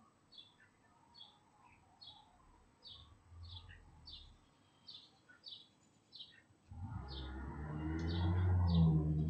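A bird calls a steady series of short, high chirps, about one and a half a second. About seven seconds in, a passing motor vehicle's engine and tyres approach and grow loud, becoming the loudest sound.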